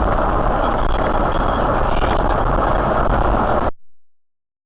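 Steady road and engine rumble of a moving car, picked up by a dash camera inside the cabin. It cuts off abruptly near the end.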